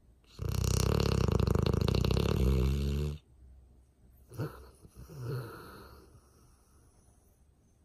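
Sleeping dog snoring: one long, loud snore of about three seconds, then two shorter, quieter breath sounds about a second apart.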